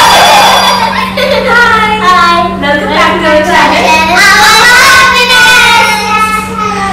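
Young girls and a woman singing together in high, cheerful voices, with a steady low hum underneath.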